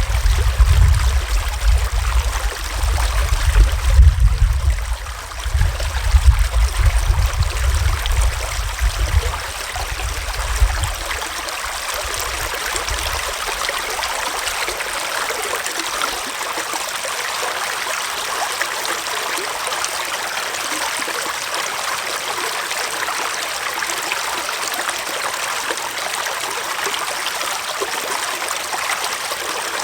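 Small forest stream flowing steadily, a constant rush and trickle of water. An uneven low rumble lies under it for the first ten seconds or so, then fades out.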